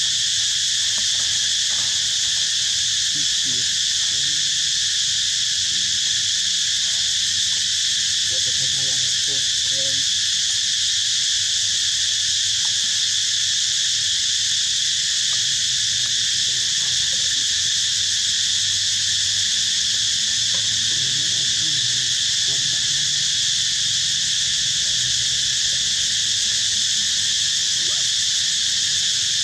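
Steady chorus of insects: a continuous high-pitched drone that holds an even level throughout.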